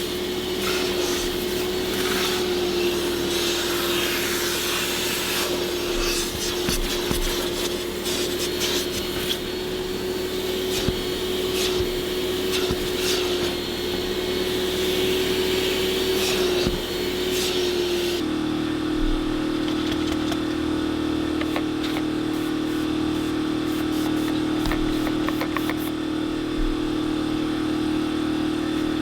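An electric cleaning machine's motor running steadily, with light scraping and clicking over it. About two-thirds of the way through, its pitch drops and the high hiss falls away.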